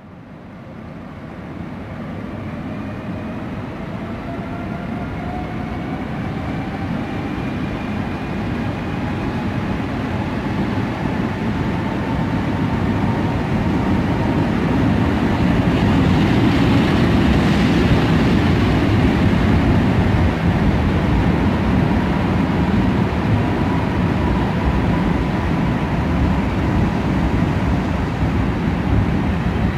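PKP EP07 electric locomotive hauling a rake of passenger coaches slowly into the platform, its rumble growing louder as it approaches and passes about halfway through. A thin whine rises slowly in pitch and then holds steady. The coaches keep rolling by to the end.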